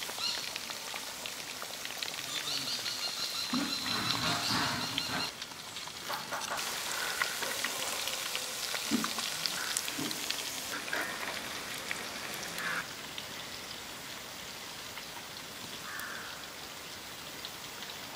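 Masala-coated chicken pieces deep-frying in hot oil in a black iron kadai, a steady crackling sizzle. A few short animal calls sound behind it.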